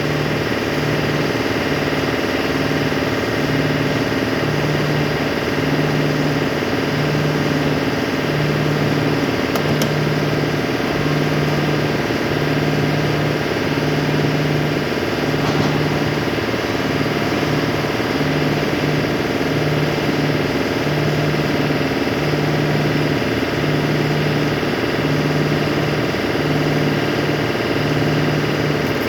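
An engine running steadily at idle, with a low tone in its hum pulsing on and off about once a second.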